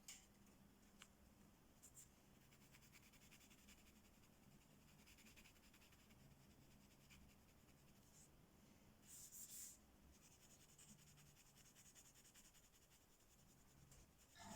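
Faint scratching of coloring strokes on paper, with a few light clicks and a brief louder scrape about nine seconds in.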